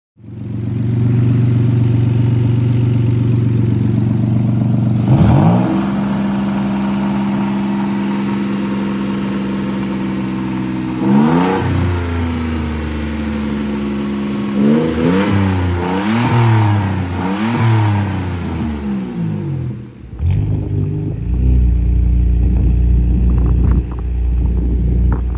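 Turbocharged Nissan Maxima engine idling with throttle blips: a rev about five seconds in, another near eleven seconds, then four quick revs in a row. Near the end the sound cuts to a deeper, uneven rumble.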